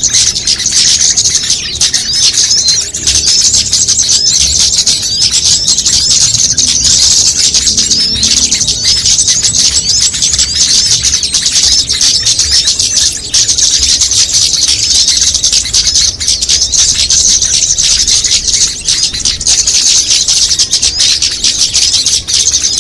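Bird-lure recording of many small songbirds calling at once, a dense, unbroken chatter of quick high-pitched chirps, the noisy mixed call used to draw small birds in.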